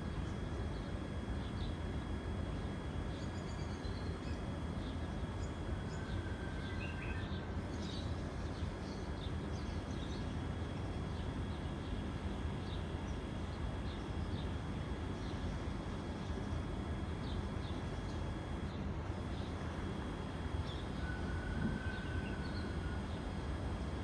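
Scattered short, high bird chirps over a steady low rumble, with two brief whistled notes, one about six seconds in and one near the end.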